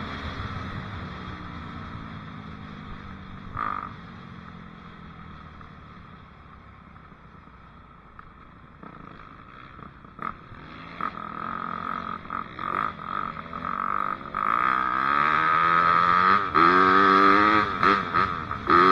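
Dirt bike engine; its note drops and fades over the first several seconds, then builds back up and revs hard in repeated rising and falling sweeps near the end.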